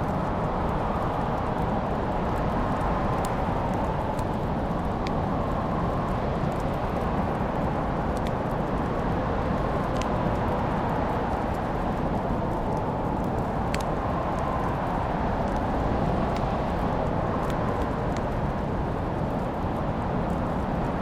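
Wood fire crackling, with scattered sharp pops and snaps over a steady low rushing noise.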